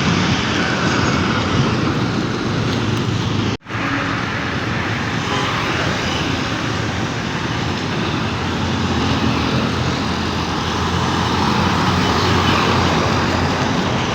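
Heavy diesel trucks running on the road, a steady engine and tyre roar; the sound drops out for an instant about three and a half seconds in, then carries on.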